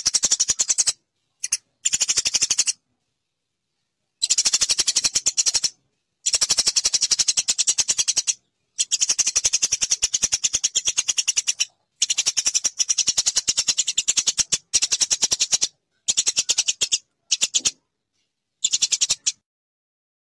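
Eurasian tree sparrow chattering: very rapid trains of sharp, high chirps in bursts of one to two seconds, broken by abrupt silent gaps where the recording is cut.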